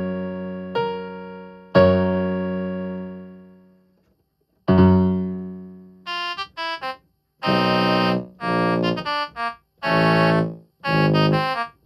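Electronic keyboard played one note or chord at a time while the preset sounds are changed. First come piano-like notes that fade away, then a short silence. From about six seconds in, a sustained tone plays short and held notes that cut off sharply when the keys are released.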